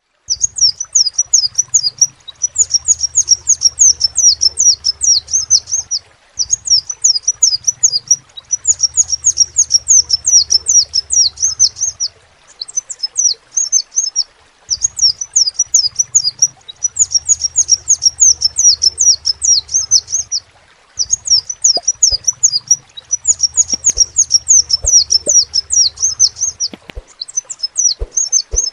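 Crimson sunbird (kolibri sepah raja) singing: rapid runs of high, thin chirps in bouts of about five to six seconds, each followed by a short pause.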